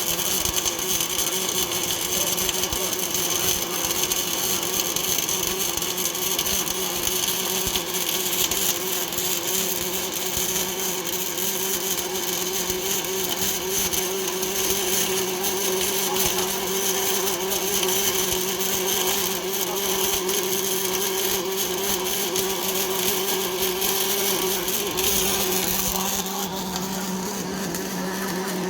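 Automatic double-torch pulley welding machine running: a steady mechanical whine under a high hiss with faint crackle. The high hiss falls away near the end.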